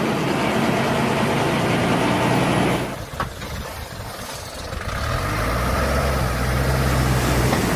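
Heavy vehicle engine sound running noisily, then cutting off abruptly about three seconds in. After a quieter moment, a low steady engine hum builds up and holds from about five seconds.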